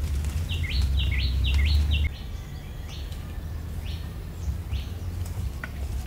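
A bird calling a quick run of short chirps, each dropping in pitch, about half a second in, with a few fainter chirps later. Under it a loud low rumble cuts off suddenly about two seconds in.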